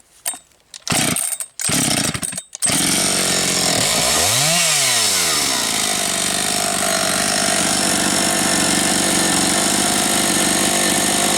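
Husqvarna 272XP two-stroke chainsaw restarted warm while heat-soaked: a few short rasps of the starter pull, then the engine catches about two and a half seconds in, revs up once and settles to a steady idle.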